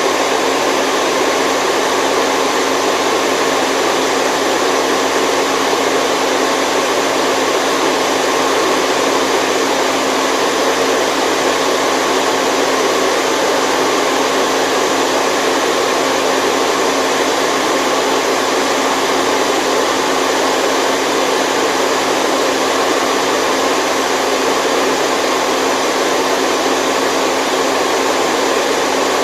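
Steady white noise for sleep: an even, unchanging rushing hiss with a faint steady hum beneath it and little deep bass.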